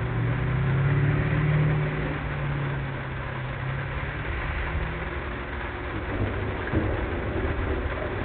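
Car driving on a rain-soaked road, played back at double speed: an even hiss of tyres and rain, with a vehicle's engine hum that swells over the first two seconds and fades out by about five seconds in.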